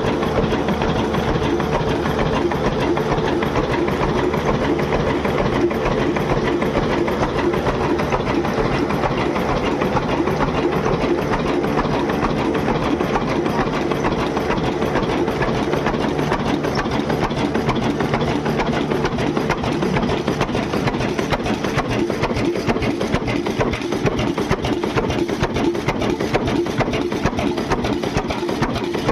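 An engine running steadily at an even speed, with a fast, even clatter over a steady hum.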